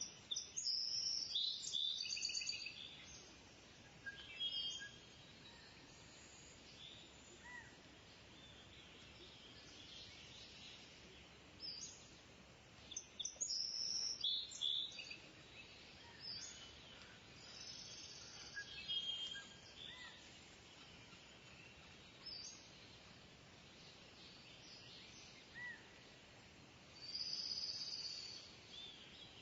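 Kingfisher giving bursts of high, shrill calls, the longest near the start, in the middle and near the end, with fainter short chirps and a steady background hiss between them.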